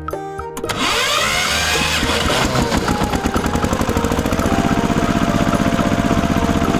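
Small engine starting about a second in, then running with a fast, even putter.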